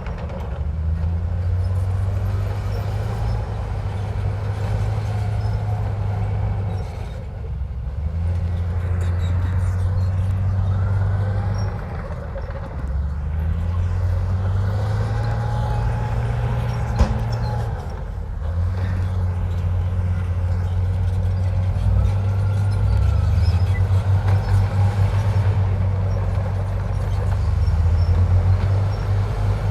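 Heavy diesel engine of a Komatsu bulldozer working, its note shifting up and down every few seconds as the load changes, with faint squeaks now and then and one sharp clank about halfway through.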